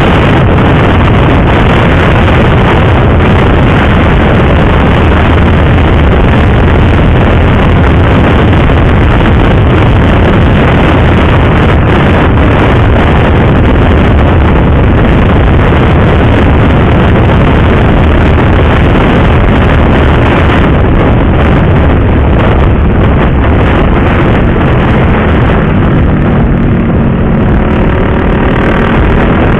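Motorcycle riding at speed, its engine a low drone almost buried under loud, steady wind rush on the microphone. Near the end the wind eases and the engine's pitched note comes through, rising slightly.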